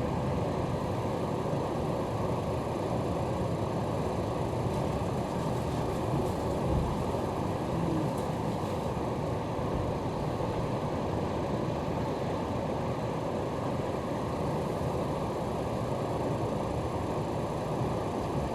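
Interior running noise of an electric commuter train moving at reduced speed: a steady low rumble from the car's wheels and running gear, with no breaks or sharp knocks.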